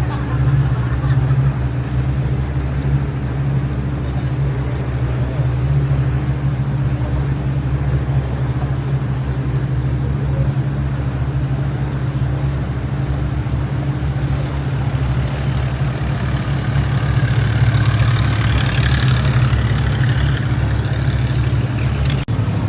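Boat engine running at a steady drone. A rushing hiss swells for a few seconds near the end.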